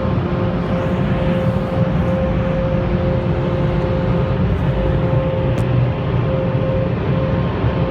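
Dryer blowers of a PDQ LaserWash G5 touchless car wash running: a loud, steady rush of air with a constant whine.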